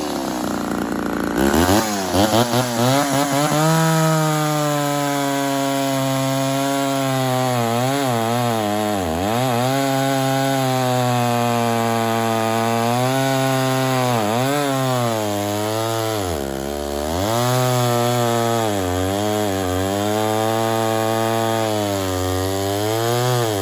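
Two-stroke chainsaw cutting through hardwood, its engine note sagging and picking back up again and again as the chain bogs in the cut. The auto oiler is not working, so the bar and chain are running without bar oil.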